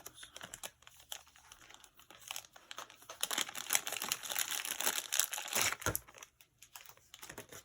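Plastic packaging crinkling and rustling as it is handled, sparse at first and then dense for a few seconds from about three seconds in, stopping around six seconds.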